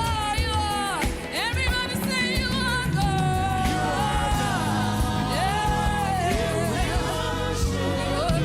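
Gospel worship music: a voice sings long, wavering held notes and sliding runs over steady keyboard accompaniment.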